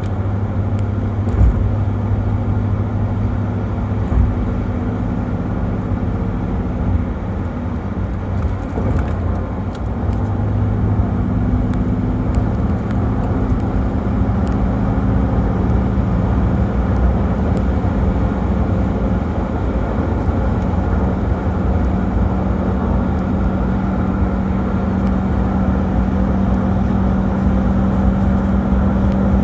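1995 Toyota Land Cruiser's turbo diesel engine running under way, a steady low drone whose pitch shifts a few times as road speed and load change.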